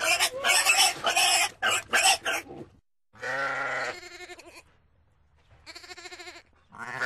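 Pigs grunting and squealing in quick, rough bursts. After an abrupt cut, a goat bleats three times: one long wavering bleat, then two shorter ones.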